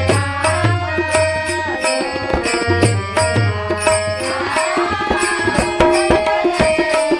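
Marathi devotional abhang music with a tabla-type hand drum keeping a steady, brisk beat under held melodic notes.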